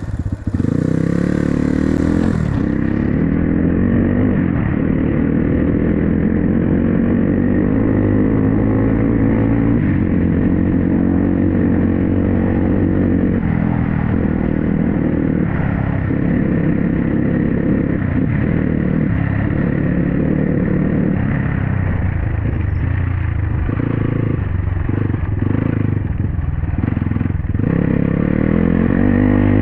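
Dirt bike engine running while under way, its pitch rising and falling with the throttle.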